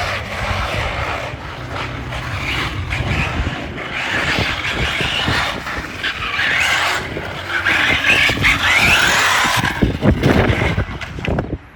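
Radio-controlled car running, its motor whining and wavering up and down in pitch, loudest in the latter half.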